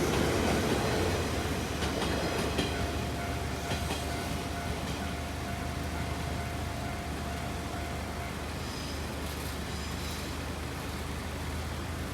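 JR Yamatoji Line electric train running past a level crossing and moving away. It is loudest at the start and slowly fades, with a few clacks of the wheels over rail joints and a faint steady whine that stops about eight seconds in.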